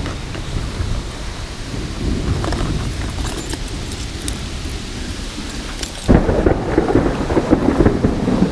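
Rain falling during a thunderstorm, with a low rumble and scattered small clicks. The sound steps up suddenly and gets louder about six seconds in.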